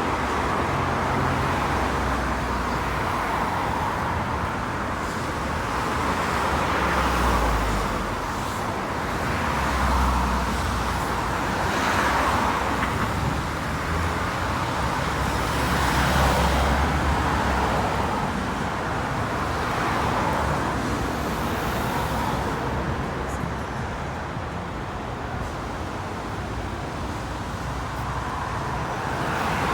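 Road traffic: a run of cars and other vehicles passing one after another, each swelling in tyre and engine noise and fading again, with a quieter lull near the end.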